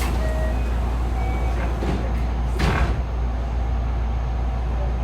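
Cabin of a JR West 207 series electric train standing in a station: a steady low hum, with short hisses of air about two and three seconds in.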